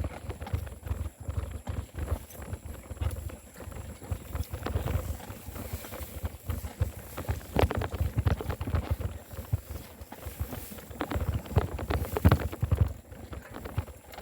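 Wind buffeting the microphone of a handlebar-mounted phone on a moving bicycle, with irregular knocks and rattles from the phone holder and bike as it rolls over the road.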